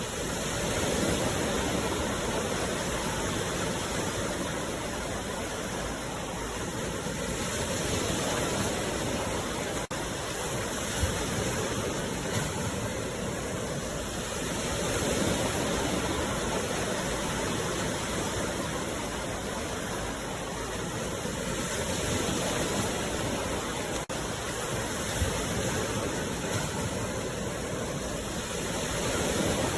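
Sea waves washing ashore: a continuous rush of surf that swells and eases about every seven seconds.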